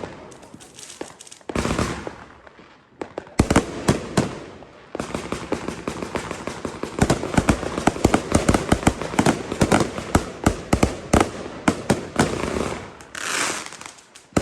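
New Year's Eve consumer fireworks going off in many sharp bangs and crackles. A few separate reports come early, then from about five seconds in a dense, rapid run of cracks lasts until near the end, where a hiss rises.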